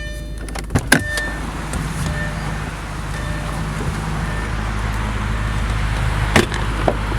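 A car idling with a steady low hum, with a few sharp clicks and knocks from handling the car, about a second in and again near the end.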